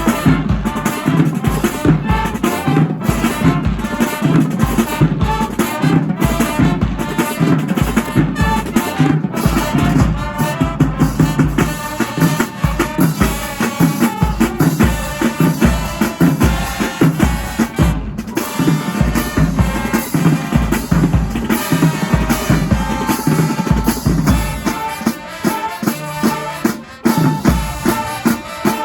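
A high school marching band playing a tune at full volume, with held brass notes over bass drums and snare drums.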